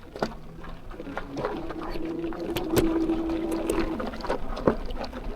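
Electric bike motor whining at one steady pitch for a couple of seconds, with a few sharp clicks and knocks from the bike over the road.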